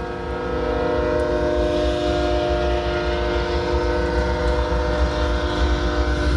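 Train horn sounding one long, steady chord of several notes, over a low rumble.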